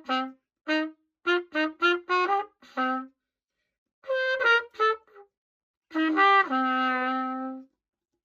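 An old pocket cornet playing a written piece: groups of short, separate notes with gaps between phrases, then one long held low note near the end. The instrument has just been cleaned, reassembled and repaired.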